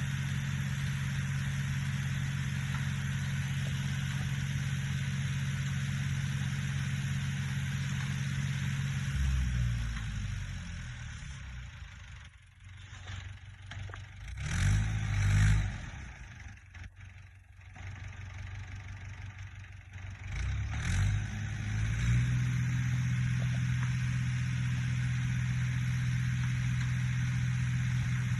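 Fordson E27N tractor's Perkins P6 six-cylinder diesel running steadily, then falling away for several seconds with a brief louder burst in the middle, and running steadily again for the last six seconds.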